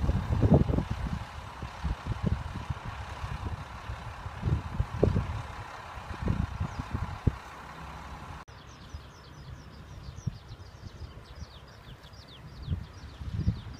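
Low irregular rumbling and thumps over a steady hiss, cut off abruptly about eight seconds in. After that, small birds chirping in quick, repeated descending calls over faint background noise.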